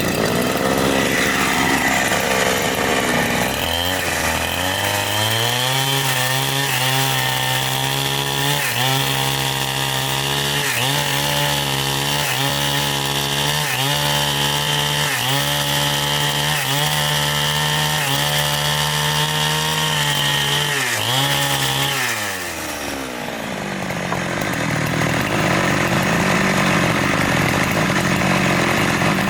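Two-stroke chainsaw running at high speed while cutting wood, its pitch dipping briefly about every two seconds as the chain takes the load. About 22 seconds in the engine drops back, then runs up again.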